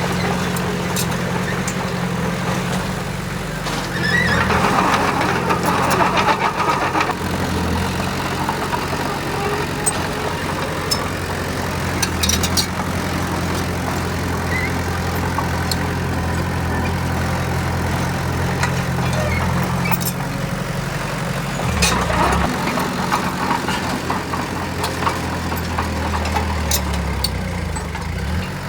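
Heavy construction machinery's diesel engine running steadily, with two louder, harsher stretches of working noise where the machine comes under load.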